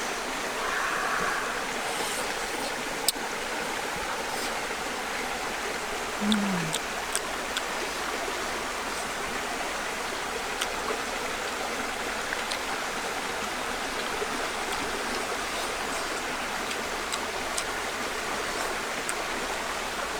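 Steady rush of flowing water, with scattered faint clicks and a brief low falling tone about six seconds in.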